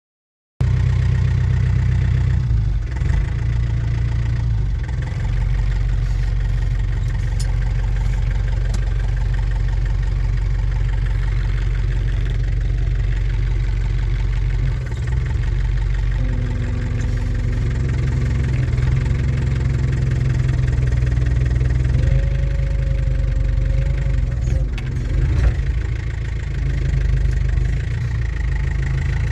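New Holland TCE50 tractor's diesel engine running steadily at a low, even speed. A faint whine comes and goes about halfway through.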